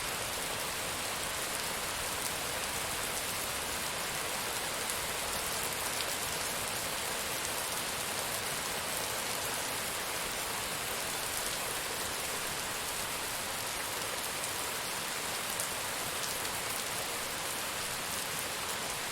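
Steady rain falling, an even hiss with faint scattered drop ticks; no thunder.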